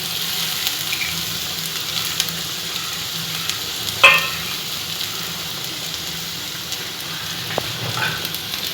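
Finely chopped onions frying in hot oil, a steady sizzle, as a spoon stirs them round the pan. There are small scraping ticks and one louder knock about four seconds in.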